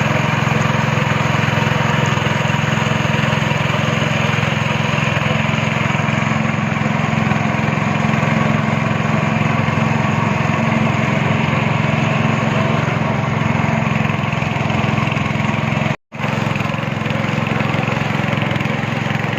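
Speedboat engine running steadily while the boat is under way. The sound cuts out for an instant about sixteen seconds in.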